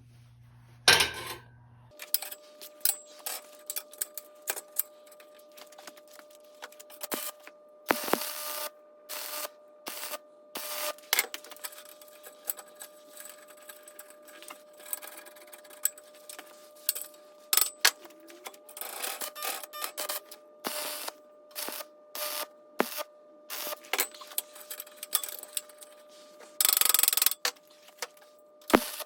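Irregular taps, clicks and knocks of hand tools and parts being handled, with a few short scraping noises, one near the end the loudest and longest, over a faint steady hum.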